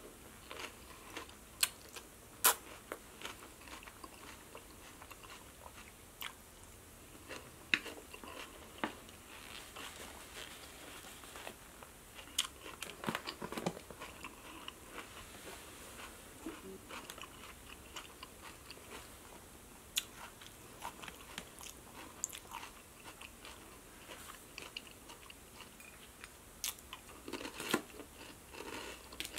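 A person biting and chewing crisp romaine lettuce salad with the mouth close to the microphone: a run of irregular sharp crunches over softer chewing.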